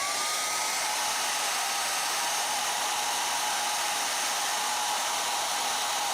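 Hair dryer running steadily: a constant rush of air with a motor whine that climbs and settles within the first second after switch-on. It is blowing hot air onto the back of a detached AirPods speaker to try to lift its dented diaphragm.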